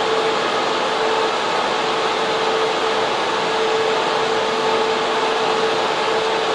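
Data center server room's cooling and server fans running with a steady, loud rushing whoosh and a constant mid-pitched hum.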